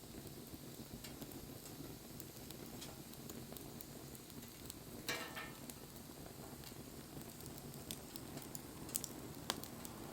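Wood bonfire burning: a steady low rustle of flame with scattered small crackles. A louder pop comes about halfway with a brief hiss after it, and two sharp pops come near the end.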